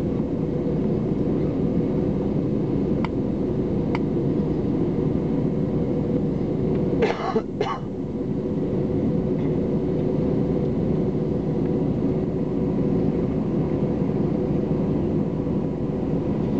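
Steady hum and rush of an airliner's cabin on the ground, its engines and air conditioning running. A person coughs twice in quick succession about seven seconds in.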